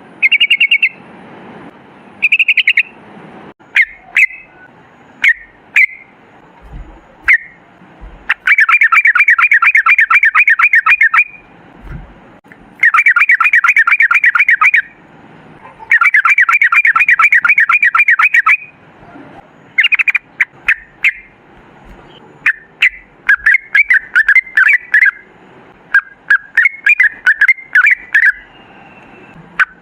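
Yellow-vented bulbul (trucukan) singing: a few short bubbly phrases, then three long rapid trills of a few seconds each (the long 'ropel' song). In the last third it breaks into runs of quick chirping notes.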